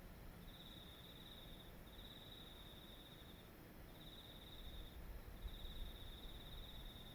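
A singing insect, cricket-like, trilling at one high pitch in runs of about a second separated by short gaps. A faint low rumble lies underneath and grows a little about five seconds in.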